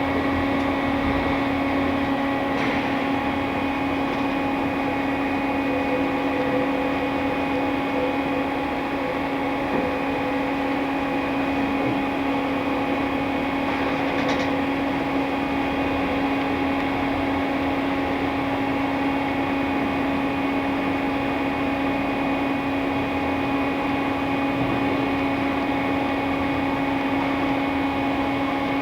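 A 2002 Fadal VMC4020A CNC vertical machining center running: a steady mechanical hum with a strong constant low tone and several fainter higher steady tones, and two faint ticks, about three seconds in and about halfway through.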